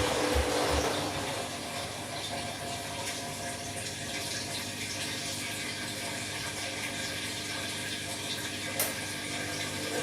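Candy washing machine partway through an empty bleaching wash: a steady rush of water in the machine, with the drum's low rhythmic thumping stopping about a second in. A small click near the end.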